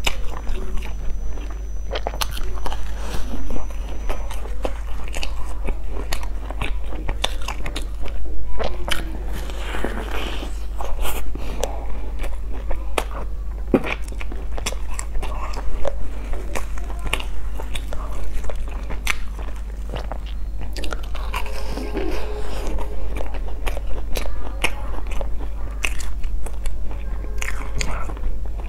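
A person biting and chewing a bread roll close to a clip-on microphone: irregular mouth clicks and chewing noises.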